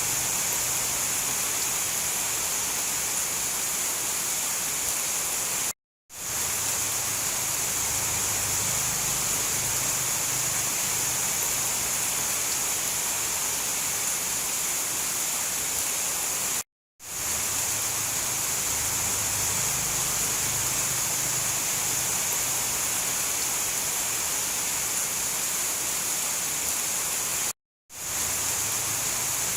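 Steady heavy rain, an even hiss strongest in the high register, with no thunder. It cuts out to silence three times, about every eleven seconds, and each time fades quickly back in.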